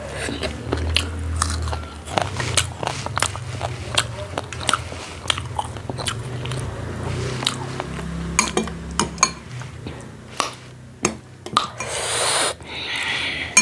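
Close-miked chewing of a mouthful of rice and curry: a steady run of wet mouth clicks and smacks over a low hum of jaw and mouth noise.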